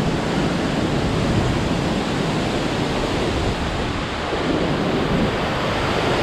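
Hurricane wind blowing hard and steadily, with gusts buffeting the microphone into a low rumble.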